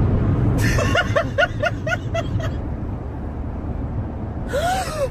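A person laughing in a quick run of short chuckles, about seven in under two seconds, over the steady low rumble of a car driving.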